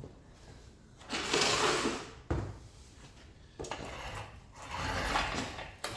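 Metal parts being worked off an engine by hand: several rasping, rattling passes about a second long, with a sharp click about two seconds in and another near the end.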